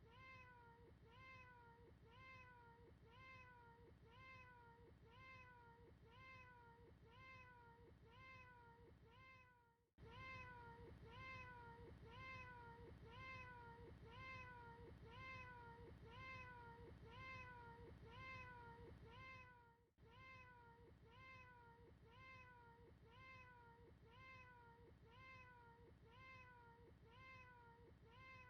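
A short cat meow looped over and over, about three every two seconds, each a quick rise and fall in pitch. The loop fades out briefly and restarts about every ten seconds.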